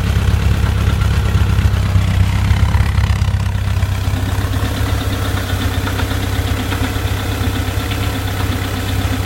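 Warm 2.0-litre fuel-injected VW Type 4 air-cooled flat-four idling steadily, with a random knock that comes only at warm idle and goes away above idle; the owner suspects a loose cam gear or a hydraulic lifter loose in its bore in the engine case.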